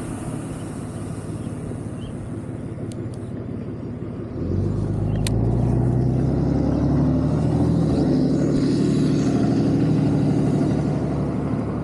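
Wind and road rumble from riding an electric scooter. About four seconds in, a louder, steady motor-vehicle hum comes in and eases off near the end.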